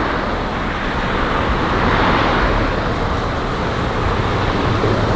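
Strong wind blowing across the microphone, mixed with road traffic passing. The noise is steady and loud.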